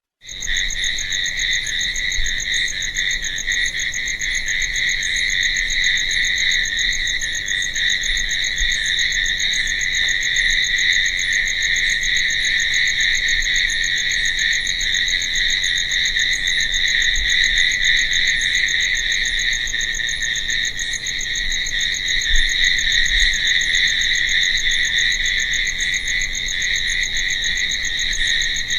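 Crickets chirping in a dense, unbroken chorus, a steady high trill that holds level throughout, with faint, regular higher ticks above it.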